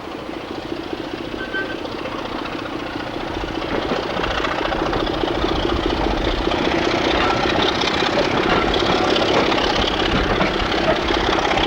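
Diesel train engine running with a steady hum, growing louder from about four seconds in as it draws nearer or works harder.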